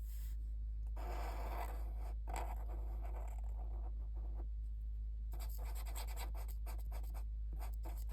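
Pen drawing on paper: irregular scratching strokes starting about a second in, turning into a quick run of short strokes in the second half, over a steady low hum.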